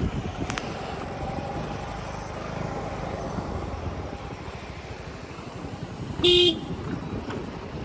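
A vehicle horn gives one short beep about six seconds in, over a steady low rumble of outdoor road noise.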